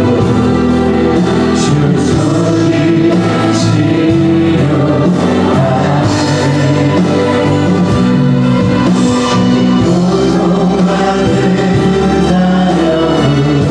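Church worship music: voices singing together in a choir-like blend over instrumental accompaniment.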